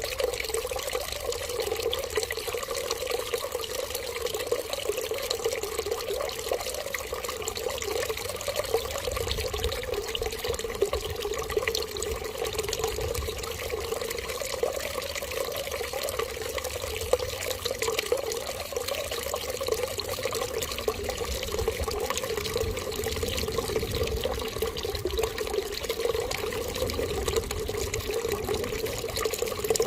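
Running water, a steady unbroken stream like a tap left on.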